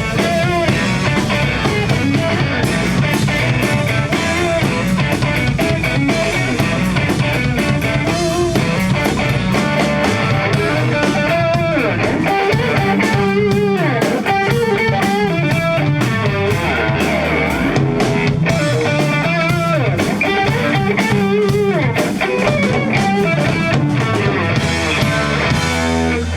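Rock band playing an instrumental passage: guitar with bending, wavering notes over drums.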